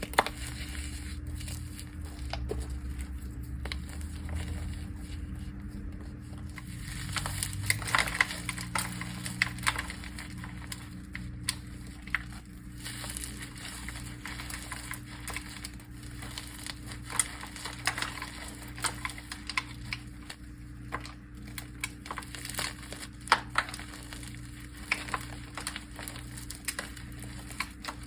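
A dry, crunchy mud pie being crushed, crumbling with irregular crackles and crunches, over a steady low hum.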